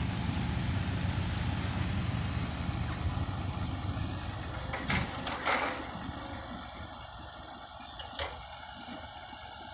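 A 210-horsepower common-rail diesel dump truck's engine running with a low rumble, fading after about six seconds, with a couple of brief knocks.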